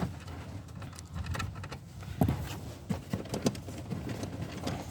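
Scattered light clicks and knocks of a socket and hand tools being handled, with one sharper knock about two seconds in.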